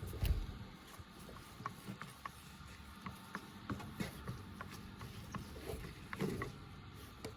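Light, irregular clicks and taps, a few each second, with a dull thump at the start.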